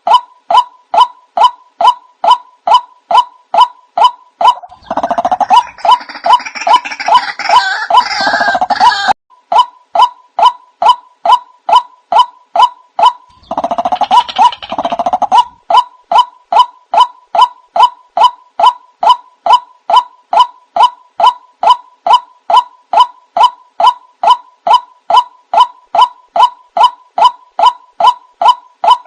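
White-breasted waterhen calls played as a lure: a monotonous series of loud, evenly repeated notes, about three a second. Twice the series breaks into a harsher, fuller chorus for a few seconds, about five seconds in and again near the middle.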